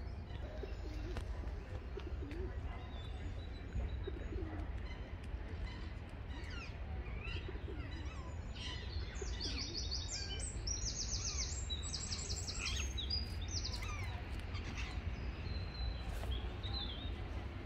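Small songbirds chirping and singing, with many short chirps and a run of quick, high trills in the middle. A steady low rumble runs underneath.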